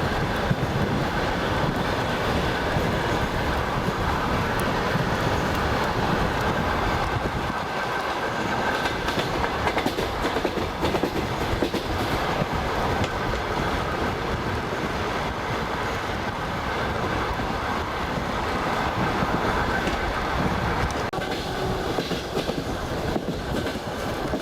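Passenger train rolling along at speed, heard from a carriage: steady wheel-on-rail rumble with the clickety-clack of the wheels over rail joints.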